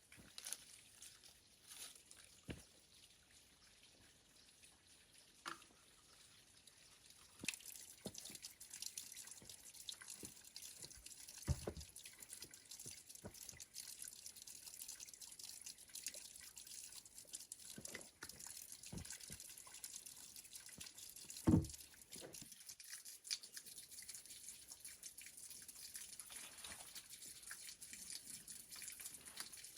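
Faint water dripping and trickling, with scattered small clicks and knocks, the loudest a little past two-thirds of the way through. A faint steady hiss comes in about seven seconds in.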